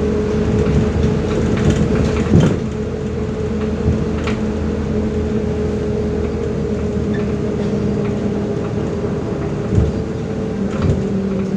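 MAZ-105 articulated city bus on the move, heard from inside the cabin: a steady engine and drivetrain drone with a constant hum, and a few short knocks from the body going over bumps, one about two seconds in and two near the end.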